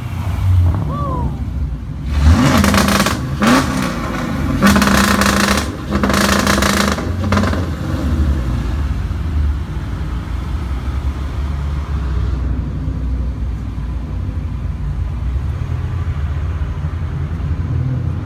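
Performance cars revving and driving off, with several loud exhaust blasts in the first half. Then a steady low engine drone.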